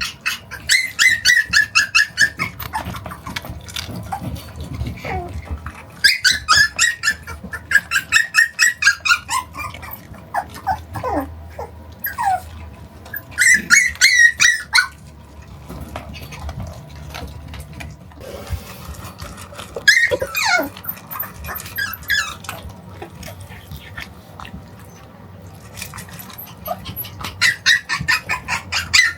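Shiba inu puppy play-barking during tug-of-war: runs of rapid, high-pitched yaps lasting a second or two each, with short whines sliding down in pitch in between.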